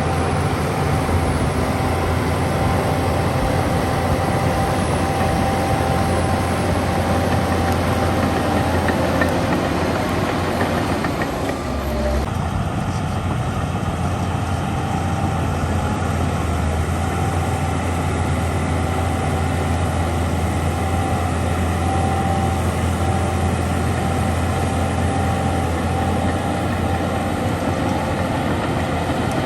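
Diesel engine of heavy earthmoving machinery running steadily with a low drone; the sound changes abruptly about twelve seconds in.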